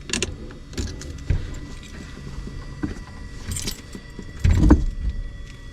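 Handling noises: scattered clicks, rattles and jangling, with a louder thump about three-quarters of the way through.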